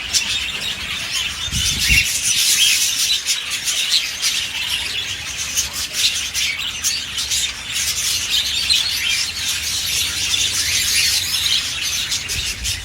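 King-size (exhibition) budgerigars chattering, a continuous stream of short chirps and squawks.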